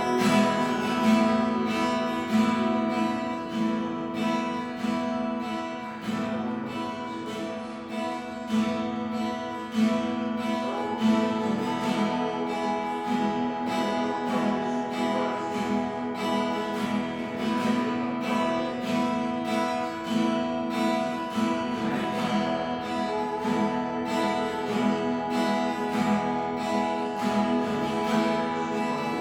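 Acoustic guitar strummed steadily in an even rhythm, sustained chords ringing.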